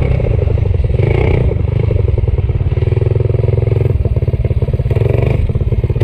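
Stage 4 Predator 212cc single-cylinder minibike engine running at low revs with its firing pulses heard one by one. It drops off from a steady higher speed right at the start, and the speed picks up briefly a few times.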